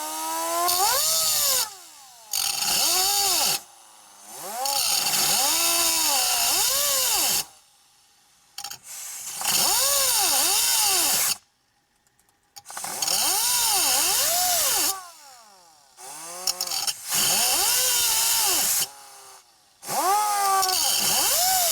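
Air grinder cutting a slot into a steel security bolt head in about seven bursts, with a whine that rises and falls as the tool loads and eases off between cuts.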